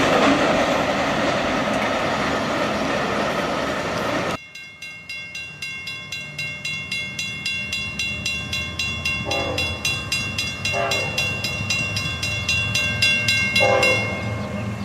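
A passing train's wheels and cars make loud, steady rushing rail noise, which cuts off abruptly about four seconds in. After the cut, a grade-crossing bell rings fast and evenly while a locomotive's engine rumble builds. The locomotive's horn sounds three short blasts during the second half.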